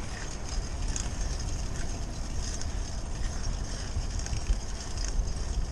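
Riding a bicycle: wind rumbling on the microphone, with faint light rattling and ticking from the bike.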